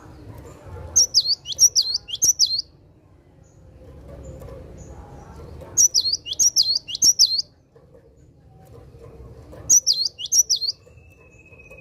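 Cinereous tit (gelatik batu) singing its 'wucit wucit' song: three phrases of three or four quick, sweeping whistled notes, a few seconds apart.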